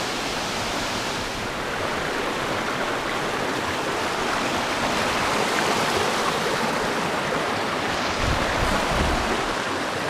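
Steady rushing of fast-flowing stream water over rocks. About eight seconds in, a brief low rumble joins it.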